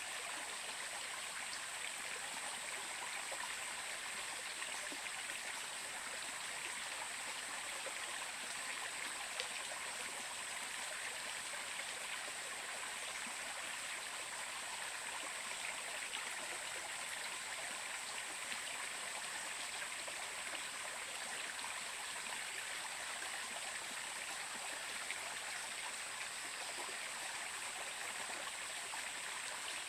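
A stream of running water flowing steadily, an even rushing sound with a constant high hiss.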